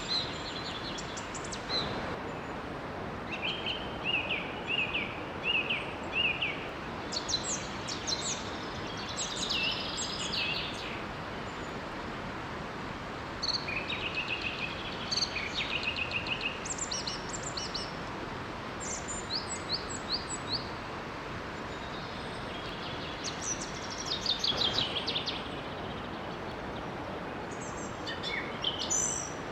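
Small forest waterfall rushing steadily, with songbirds singing over it in short phrases of quick, high chirps and trills that come every few seconds.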